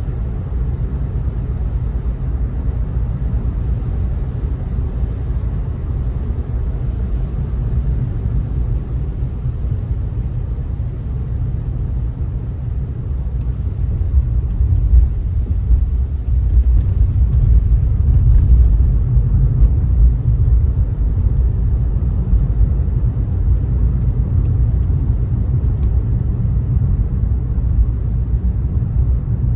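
Car driving on a wet road: a steady low rumble of road and tyre noise, slightly louder from about halfway through.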